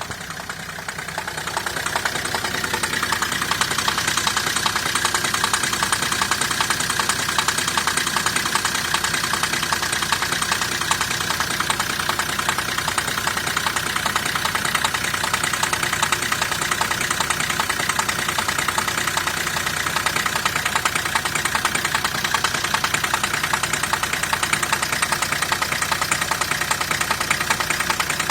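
Renault Scenic II engine running at idle with a fast, even knocking from a pulley on the engine. The sound grows louder over the first few seconds, then holds steady.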